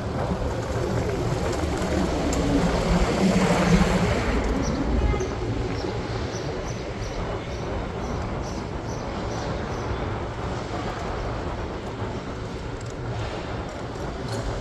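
Steady vehicle rumble that swells for a couple of seconds, about two seconds in, as something heavy passes close, then settles back to an even rumble with faint ticking.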